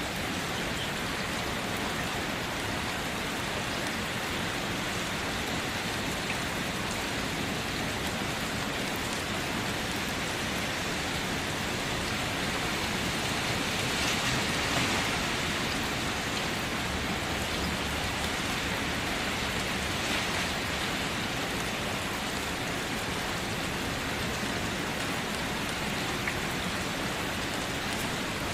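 Steady rain falling, swelling briefly a little past the middle.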